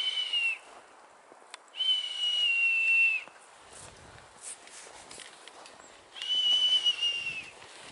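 Long, steady high whistles calling a dog: one ends about half a second in, then two more follow, each lasting over a second with a slight drop in pitch at the end.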